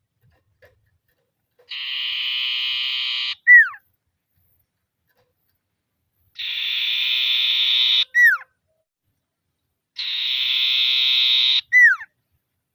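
Common iora (cipoh/sirtu) singing its rival-challenging trill: three times, a long buzzy trill of about a second and a half, each ending in a sharp falling whistled note.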